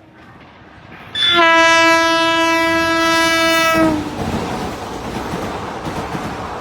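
WAG-9 electric locomotive sounding one long horn blast of about three seconds, the train's noise rising as it approaches. After the horn stops, the train runs past with steady rumble and wheel clatter on the rails.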